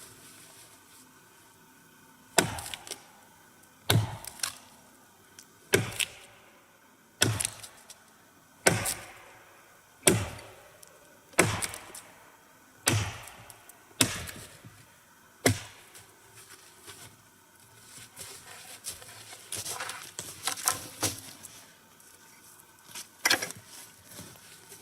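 Axe chopping wood: about ten hard, evenly spaced blows roughly a second and a half apart, followed after a pause by lighter knocks and handling of wood.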